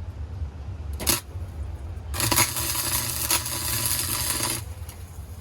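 A short burst of MIG-style welding on a steel exhaust pipe: a steady crackling hiss with a buzz under it, lasting about two and a half seconds and stopping abruptly. A sharp click comes about a second in, before the weld starts.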